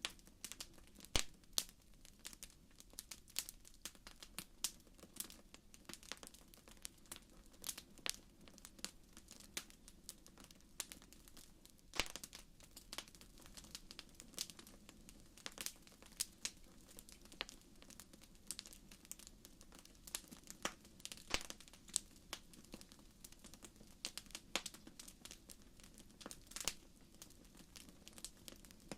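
Wood fire crackling in a fireplace: a steady scatter of small irregular crackles and snaps over a faint low hiss, with sharper single pops about a second in and near the middle.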